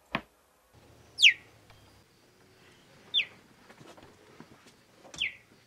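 A bird calling three times, about two seconds apart: each call a short, sharp whistle that falls steeply in pitch, the first the loudest. A short click comes right at the start.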